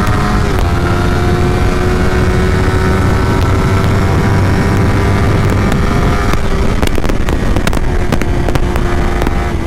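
Suzuki GSX-R150's single-cylinder engine running hard at high revs under full throttle, with a steady high pitch and a brief dip about half a second in. Heavy wind rush on the microphone runs underneath.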